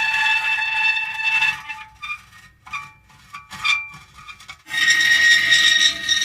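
Metal creaking: a drawn-out, squealing creak that breaks off after about a second and a half into a few short, faint creaks, before another loud, long creak starts near the five-second mark.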